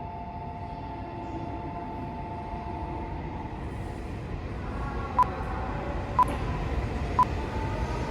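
Joetsu Shinkansen Toki bullet train approaching, its low rumble building steadily over the last few seconds. A steady two-note hum fades out about three seconds in, and three faint ticks a second apart come near the end.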